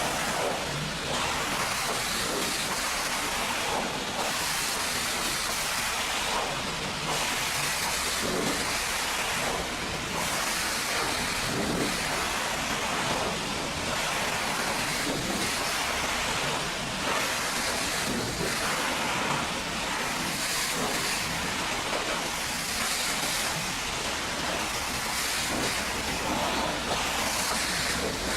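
High-pressure washer spray hissing steadily against a truck's body, swelling and easing slightly as the jet moves.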